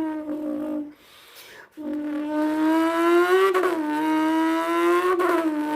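A person imitating a V10 supercar engine with their mouth: a loud buzzing held note that breaks off about a second in. After a short pause it starts again and slowly climbs in pitch, dropping sharply twice as if shifting up through the gears.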